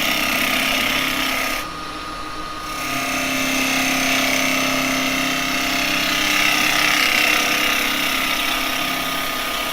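Spindle gouge cutting wet cherry wood on a spinning Axminster wood lathe: a steady hissing cut over the lathe motor's even hum. The cut breaks off for about a second, around two seconds in, while the hum carries on, then resumes.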